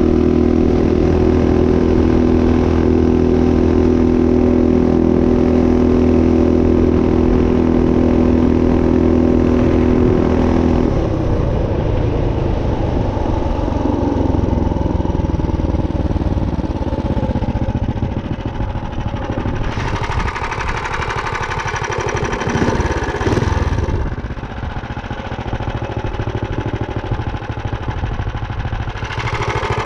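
Minibike's built Tillotson 212 single-cylinder engine running at a steady speed. After about ten seconds the even note gives way to a rougher, less even engine sound, with a louder rushing noise for a few seconds about two-thirds of the way through.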